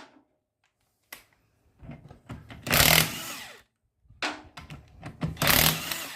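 Impact wrench hammering wheel bolts loose, in two bursts: one of about a second near the middle and a longer one of about two seconds near the end.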